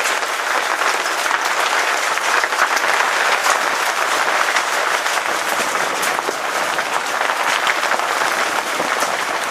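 Hailstones pelting down in a steady, dense clatter of many small impacts.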